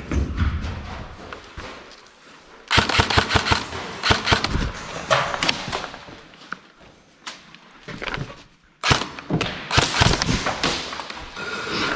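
Airsoft guns firing in two spells of rapid sharp snaps and clacks, the first about three seconds in and the second about nine seconds in.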